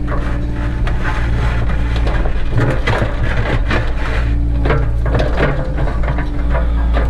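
Cat 307 excavator's diesel engine running steadily, overlaid by repeated bursts of scraping and clattering from digging in stone and soil.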